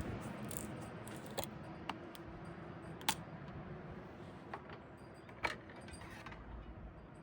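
A few sharp metallic clicks and clinks, about four of them spread out, over a faint low hum that slowly fades.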